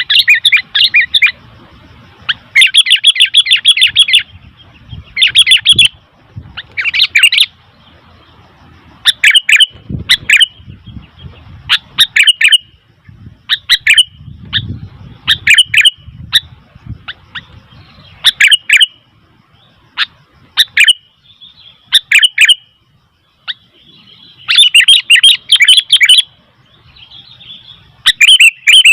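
Sooty-headed bulbul calling loudly: short bursts of rapid chattering notes, repeated every second or two with brief pauses between.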